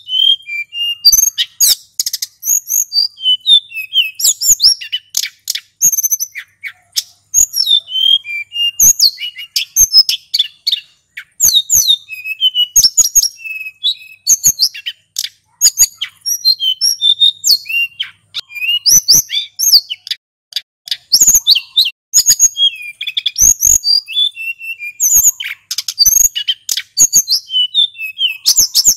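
Male hill blue flycatcher (sulingan gunung) singing non-stop: a rapid, unbroken run of high sweet whistled phrases with many quick up-and-down glides, crossed by frequent sharp clicks.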